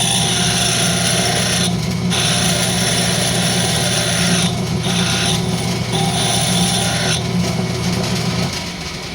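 Wood lathe running with a hand tool cutting the spinning rosewood tenon: four stretches of hissing scrape, each a few seconds or less, over the steady motor hum. Near the end the motor hum stops and the lathe spins down.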